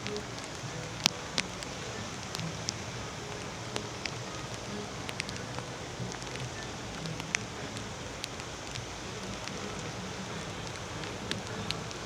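Steady rain falling, with scattered sharp ticks of single drops; the loudest comes just after a second in.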